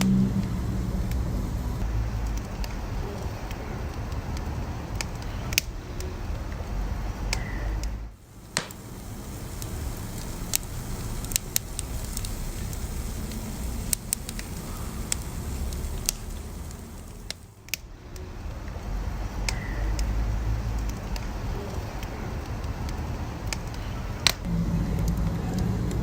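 Wood fire crackling and popping in a fireplace, with irregular sharp snaps over a steady low rumble. The sound dips briefly twice.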